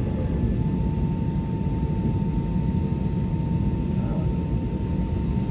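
Steady cabin noise of an Airbus A320neo airliner: an even low rumble from the engines and airflow, with a thin steady whine that comes in about half a second in.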